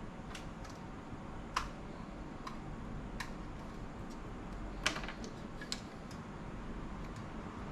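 Small sharp clicks and taps of hands and a tool working at a laptop's internal parts and connectors, about half a dozen at irregular intervals, over a steady low hum.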